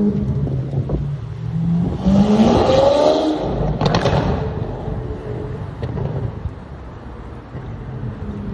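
Car engine revving and accelerating hard, its pitch climbing, loudest in the middle, with a sharp crack about four seconds in before it fades into a rushing noise.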